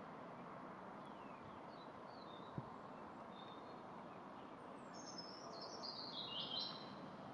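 Faint outdoor ambience with small songbirds chirping, ending in a stepped, descending run of bird notes near the end. A single faint tick about two and a half seconds in.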